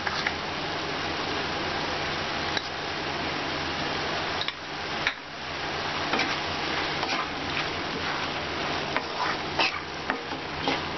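Minced meat and chopped onions sizzling as they fry in a kadai, stirred with a wooden spatula that scrapes and knocks against the pan every so often.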